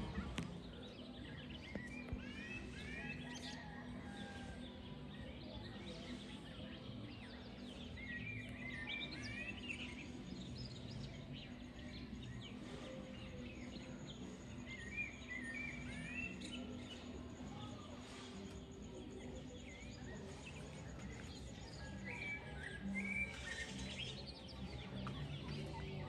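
Wild songbirds singing: a short burst of quick chirping notes comes about every six or seven seconds, with scattered fainter chirps between, over a faint steady low hum.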